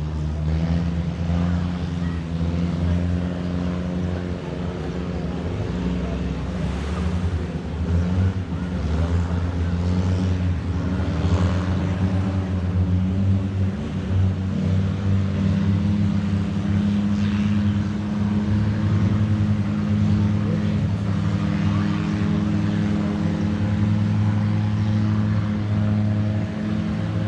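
Longtail boat engine running steadily, a low pitched drone that holds its pitch throughout.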